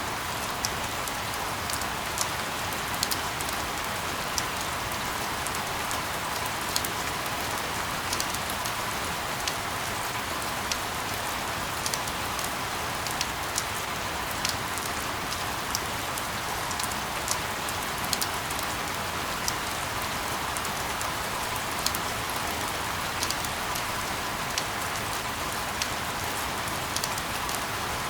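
Steady rain: an even hiss with scattered sharper drop taps, about one or two a second.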